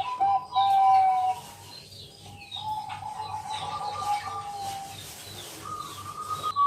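Bangkok-type zebra dove (perkutut) cooing in a series of held, ringing notes, loud for the first second and a half, then softer, with a higher note near the end. Smaller birds chirp faintly behind it.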